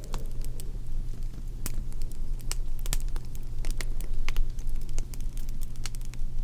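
Wood fire crackling: irregular sharp pops and snaps, several a second, over a steady low hum.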